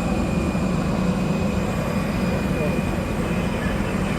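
Airbus A320 jet engines running with a steady rush and a thin, high, steady whine.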